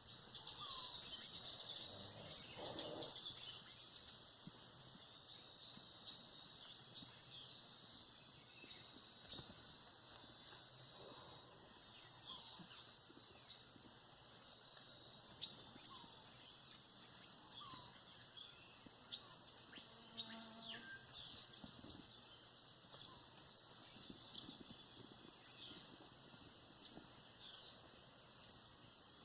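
Birds chirping and calling with short, scattered chirps and whistles over a steady high-pitched insect drone.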